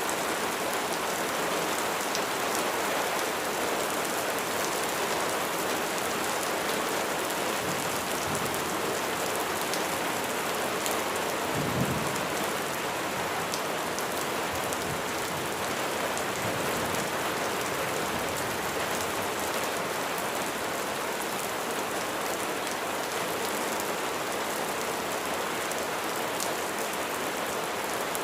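Steady rain falling, an even rushing hiss, with a low rumble in the middle stretch and one brief low thump near the middle.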